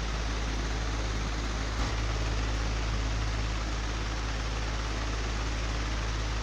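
Old electric fan running steadily: an even rush of air over a deep low hum. A brief thump about two seconds in.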